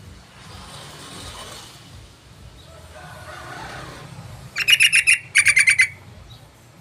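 Yellow-vented bulbul (trucukan) giving two quick bursts of rapid chattering notes about four and a half seconds in, over a faint background hiss.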